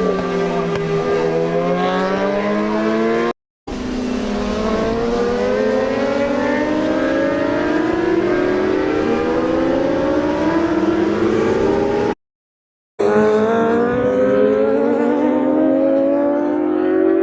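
Several racing motorcycle engines at full throttle, their pitch climbing steadily through long pulls as the machines accelerate, the engines overlapping at different pitches. The sound drops out abruptly twice for under a second, then picks up again.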